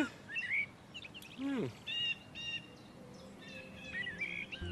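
Short bird chirps and calls, with one longer call that slides down in pitch about a second and a half in, then two quick chirps and a few more near the end.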